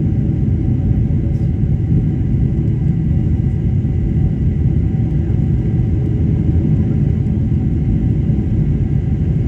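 Boeing 747-400 engines at high power with rushing airflow, heard inside the cabin as a steady deep rumble with a faint high steady whine, during the departure climb.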